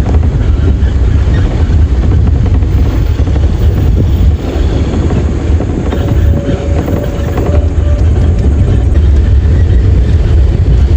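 Scania R580 truck's V8 diesel engine running steadily with a deep, loud drone.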